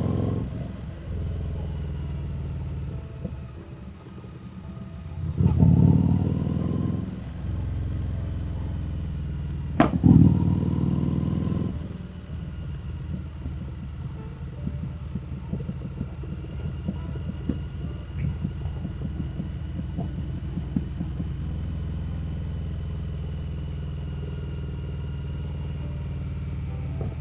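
Harley-Davidson Street Rod 750's V-twin engine running on the move. It swells louder twice as the rider accelerates, about five and ten seconds in, with a sharp click at the start of the second surge, then settles into a steady, rough cruising note.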